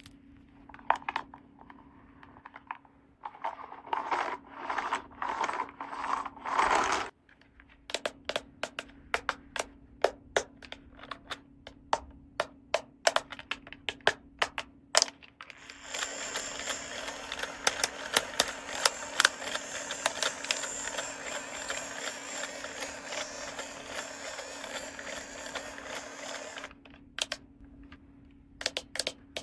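Small plastic toy pieces being handled: first a few rubbing strokes, then a quick run of sharp clicks and taps. From about halfway a steady rustle of plastic packaging runs, with clicks over it, and stops near the end.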